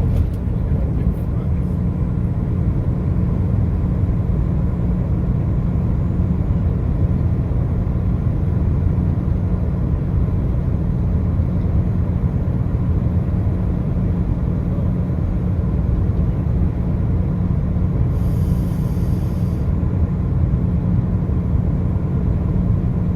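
A car travelling on the highway: a steady low rumble of tyres and engine.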